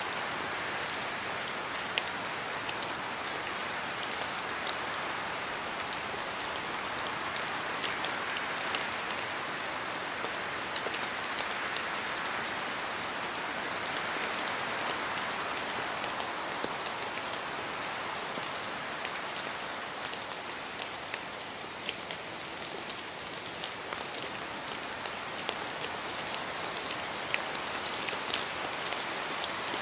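Steady rain falling in a forest, a constant wash with many separate sharp drop hits scattered throughout.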